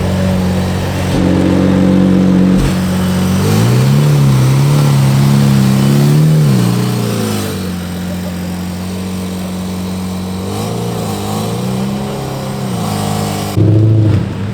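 Car engines idling and being revved, their pitch rising and falling several times, with a brief louder burst near the end.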